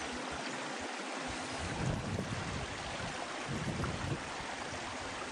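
Wind on the microphone: a steady rushing hiss, with irregular low buffeting gusts starting about a second in.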